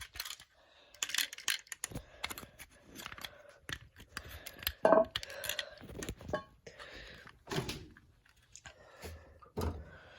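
Scattered clicks, knocks and rustling of objects being handled, with the loudest knock about five seconds in.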